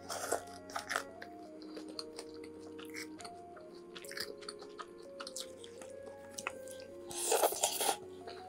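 Close-miked mukbang eating sounds: biting, chewing and crunching of crisp fried tangsuyuk batter, in short crackles. About seven seconds in comes a louder burst of noise lasting nearly a second. Background music with a light melody plays throughout.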